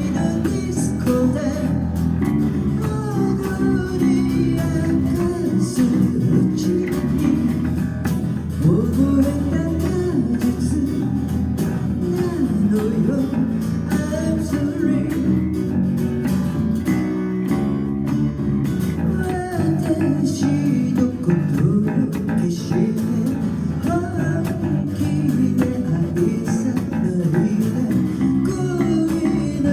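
A band playing a song: guitar with a bass guitar line underneath, the music running steadily throughout.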